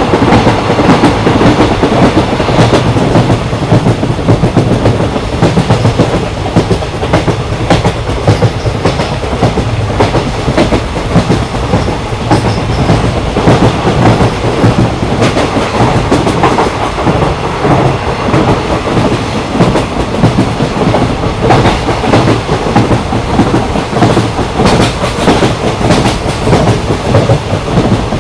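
Train in motion: a steady low rumble of railcars with a continuous clickety-clack of wheels over rail joints.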